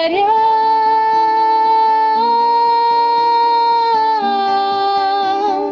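The song's closing held note: a singing voice holds one long note over soft accompaniment, stepping to a new pitch twice before the music ends.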